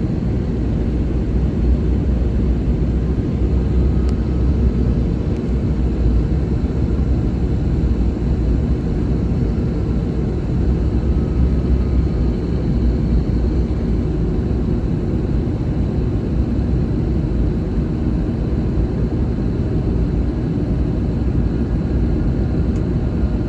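Steady low rumble of an Airbus A321neo, engine and cabin noise heard from inside the passenger cabin.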